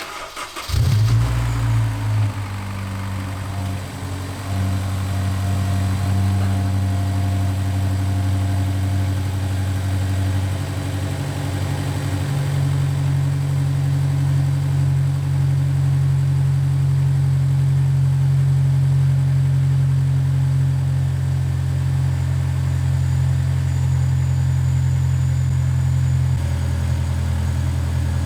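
Honda S2000 four-cylinder engine starting with a brief flare about a second in, then idling steadily, its note stepping up slightly a couple of times. It runs with no timing-chain rattle now that a new timing chain tensioner is fitted.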